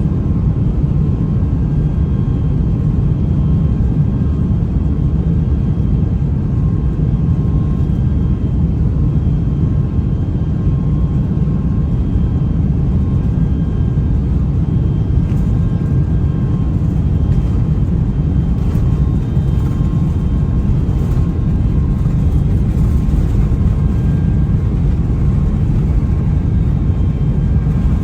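Airbus A350 jet airliner during takeoff: its Rolls-Royce Trent XWB engines at high power, heard as a loud, steady low rumble with faint steady whining tones above it.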